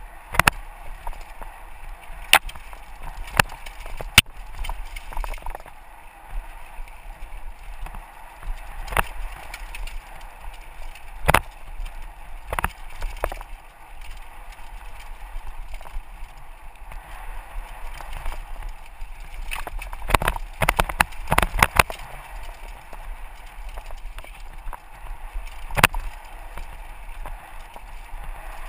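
Mountain bike rolling down a rocky dirt trail: a steady rush of tyres on dirt, broken by frequent sharp knocks and rattles from the bike going over bumps, heard from a helmet-mounted GoPro.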